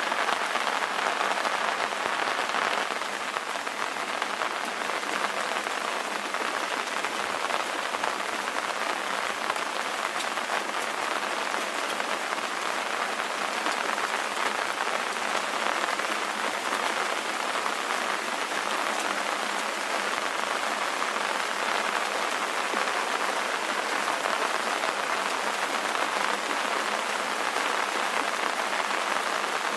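Steady rain ambience: an even, unbroken hiss of falling rain with dense patter, and no low rumble underneath.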